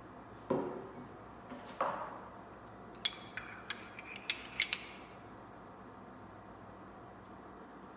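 Two dull knocks, then a spoon clinking against a coffee cup about eight times in quick succession, each with a brief ring, as milk is stirred into the coffee.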